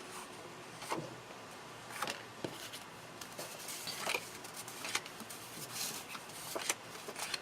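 Paper and small crafting tools handled on a tabletop: scattered light taps, clicks and soft rustles.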